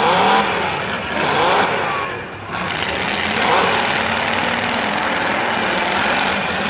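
Several old-iron demolition derby cars, vintage Chrysler Imperials among them, revving their engines hard in repeated surges as they shove in a pile, the pitch sweeping up and down over a dense din.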